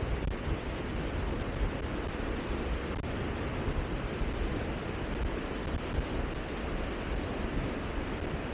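Steady wind noise: a low, fluttering rumble of wind buffeting the microphone over a fainter hiss, with no distinct events.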